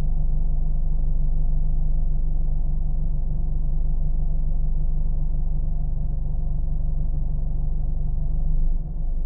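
Car engine running as a steady, low drone with no change in speed. Just before the end the level drops slightly and the low hum shifts.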